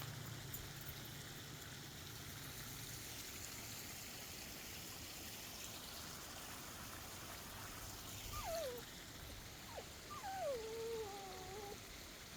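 Water trickling steadily in a stream. From about eight seconds in, a dog whines: a few short whimpers that fall in pitch, then one longer wavering whine.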